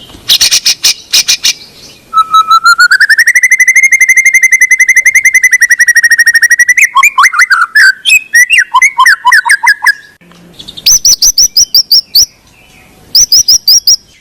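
White-rumped shama (murai batu) singing loud, fast, varied phrases: rattling trills, then a long rapid trill that rises and holds steady for several seconds, then a jumble of quick notes and short high rattles.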